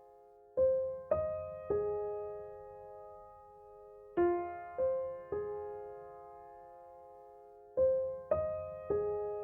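Background music: slow electric piano chords, struck in groups of three about half a second apart. Each chord rings out and fades, and the pattern repeats three times.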